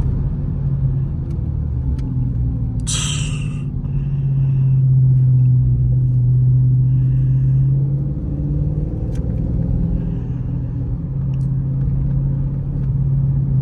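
Dodge Charger Scat Pack's 6.4-litre HEMI V8 running under way, a steady low drone that swells for a few seconds in the middle. A brief hiss comes about three seconds in.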